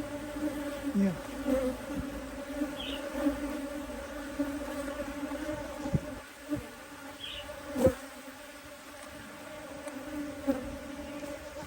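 Honeybee colony in an open hive buzzing steadily, a dense hum holding a few low pitches, with a few soft knocks around the middle.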